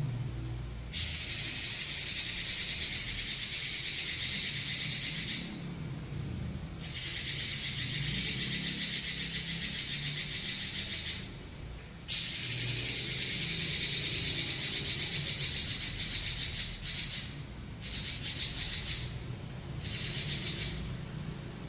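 Pekin robin (red-billed leiothrix) singing long, fast rolling trills. Three trills of about four to five seconds each are followed by several shorter ones near the end.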